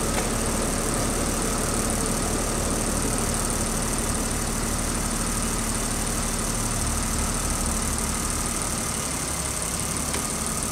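BMW 5 Series engine idling steadily on LPG at about 750 rpm, with the clicking of the newly fitted Tartarini EVO 08 gas injectors, which are fairly loud. The idle sags slightly near the end while the gas system runs its basic calibration.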